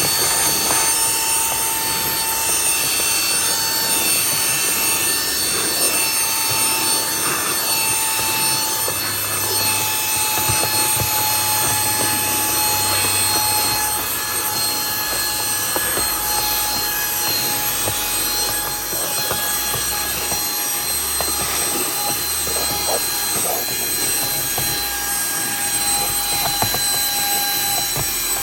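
Shine X Pro cordless handheld vacuum cleaner running on its high setting: a steady high-pitched motor whine over the rush of suction air, its pitch sagging slightly as it works.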